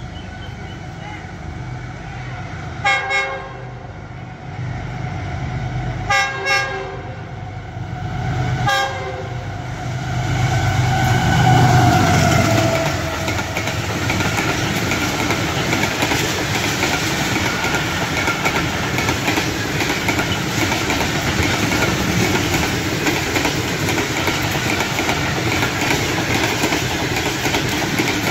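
A GEU40 diesel locomotive hauling an express passenger train at high speed sounds its horn in a few short blasts over the first nine seconds, then passes close by with a loud engine note that drops in pitch. The coaches follow with a steady rattle and clickety-clack of wheels on rail joints.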